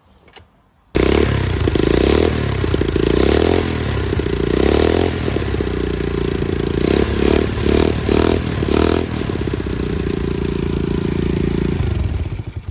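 SSR 125cc pit bike engine kick-started. It catches abruptly about a second in, is revved up and down a few times, then settles to a steady run before dropping away near the end. It runs well.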